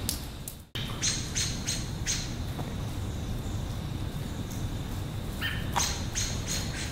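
A small bird chirping in short, high calls: a run of four about a second in and another quick cluster near the end, over a low steady background noise.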